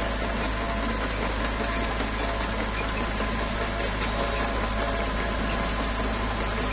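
Small bulldozer's diesel engine running steadily at an even level.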